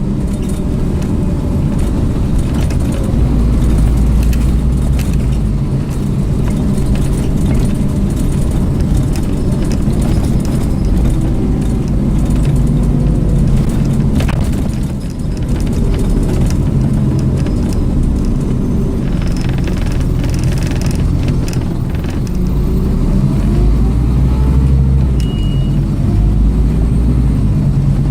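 Scania OmniCity single-decker bus's engine running on the move, its pitch rising and falling as the bus accelerates and slows, with a light rattle of loose fittings over it.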